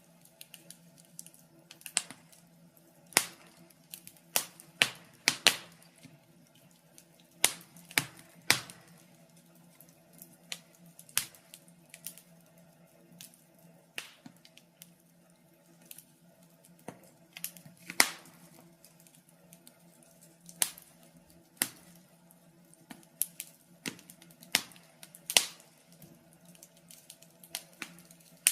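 Wood fire in a fireplace crackling: sharp pops at irregular intervals, roughly one every second or two, over a faint steady hum.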